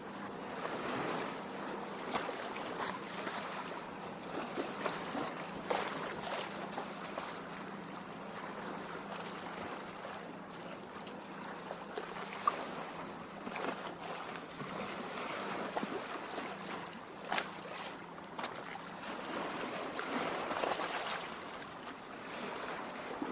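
Small lake waves lapping at the shore, a steady wash of water with scattered small splashes and drips.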